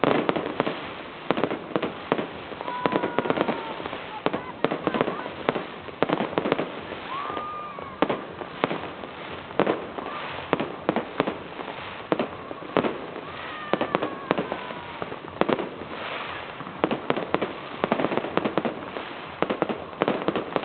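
New Year's fireworks: a dense, continuous run of sharp bangs and crackling reports from rockets and firecrackers, several a second.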